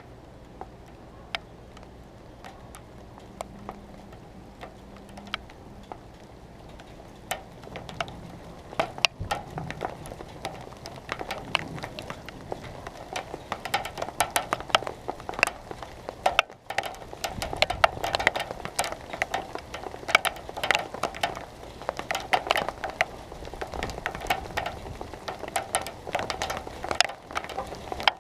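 Raindrops pattering on a hard surface close to the microphone, a few scattered drops at first, then thickening into a dense patter from about eight seconds in as the storm's rain picks up.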